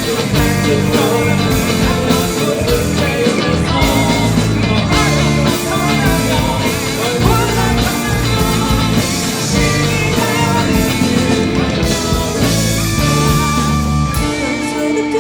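Live rock band playing a song at full volume, with electric guitars, bass, drums and keyboard.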